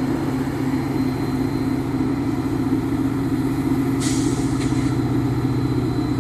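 Metra diesel locomotive running steadily with an even, deep engine hum while the train stands at the station. About four seconds in comes a short burst of air hiss, followed by a fainter one.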